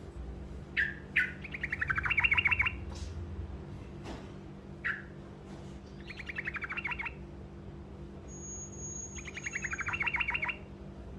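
Truco songbird singing short rolling trills: three fast runs of repeated downward-sweeping notes, each lasting about a second, with single short chirps in between. A steady low hum lies under the song.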